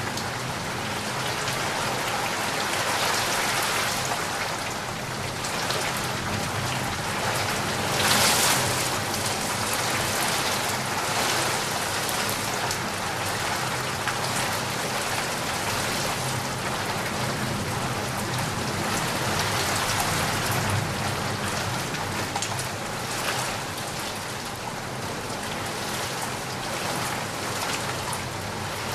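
Steady rain falling and pattering on surfaces, with a brief louder gust of rain about eight seconds in.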